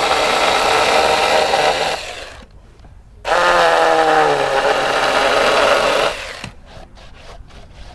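Battery-powered electric chainsaw cutting into a wooden slab in two bursts, about two and three seconds long, with a short pause between; in the second burst the motor's whine drops in pitch as the chain bites into the wood. It stops a little over six seconds in, leaving a few faint clicks.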